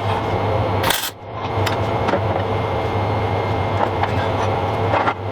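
Welder striking a short tack weld on steel sheet-metal plates: a brief burst of arc crackle a little under a second in, over a steady hum and hiss that continue to the end.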